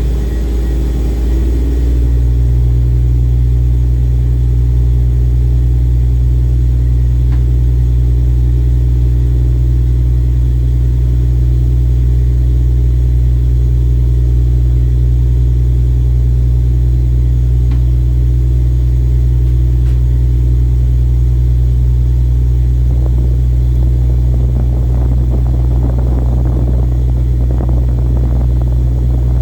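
Ship's engine running steadily with a loud, unchanging low drone. Irregular rushing noise joins in over the last few seconds.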